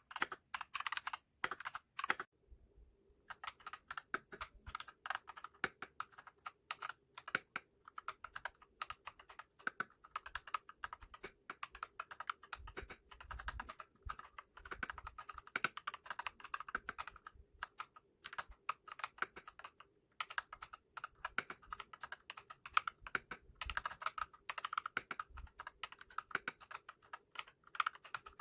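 Mechanical keyboard with Akko CS Lavender Purple tactile switches and PBT pudding keycaps being typed on quickly and continuously, a dense run of key clacks broken by a few short pauses, over a faint steady hum.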